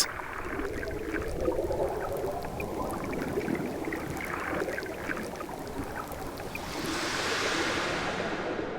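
Underwater ambience: a soft, steady watery rush with faint scattered crackles, swelling into a brighter hiss about seven seconds in, then fading.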